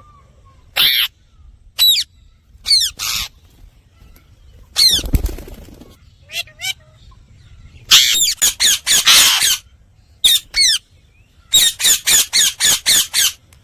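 Indian ringneck parakeet screeching: short, shrill, loud calls, some single and some in quick runs of five or six, with one noisier rustling burst about five seconds in.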